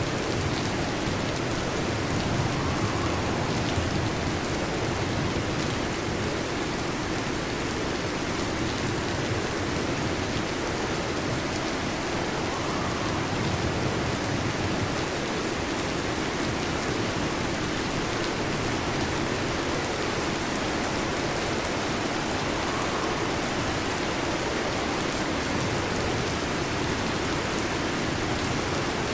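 Heavy rain falling steadily on a metal roof, a dense, even hiss of drops without pause.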